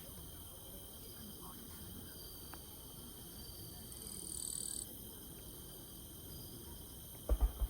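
Crickets trilling steadily and faintly, with a louder high trill for under a second about four seconds in. A few short low thumps come in quick succession near the end.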